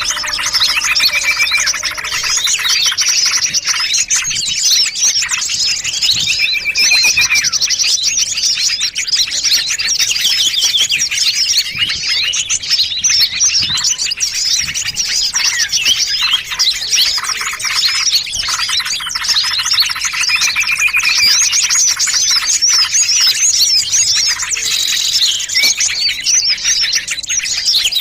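A dense mix of many small songbirds calling at once, with continuous overlapping high chirps, rapid trills and short whistles. It is a layered lure recording of small-bird calls, the kind played to attract birds for trapping.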